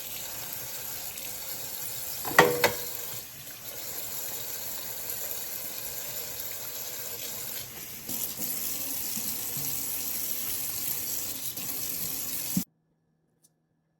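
Steady running water, with two sharp knocks about two and a half seconds in; the water sound cuts off suddenly near the end.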